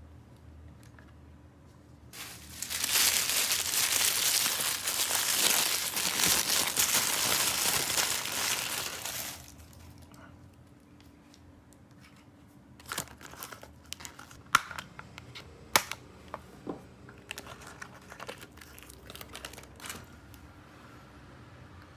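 Plastic toy packaging being crinkled and torn open for about seven seconds, followed by scattered light crinkles and clicks of handling.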